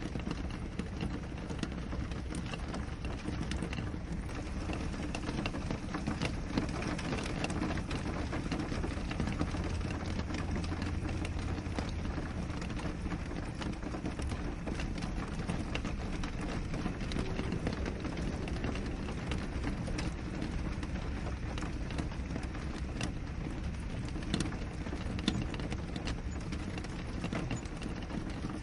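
Steady rain on a window glass: a dense, even patter of many separate drops ticking, with a few louder single drops.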